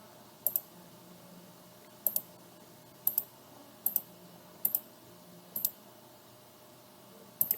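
Computer mouse buttons clicking about seven times at irregular intervals, several as quick double clicks, while lines are drawn in CAD software.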